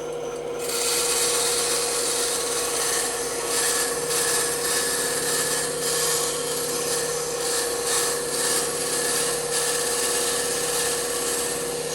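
Bandsaw running with its steady hum as the blade cuts into a piece of wood; the rasping of the cut starts about half a second in and goes on steadily.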